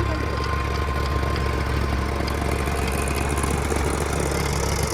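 Eicher 480 tractor's diesel engine running steadily with an even low hum.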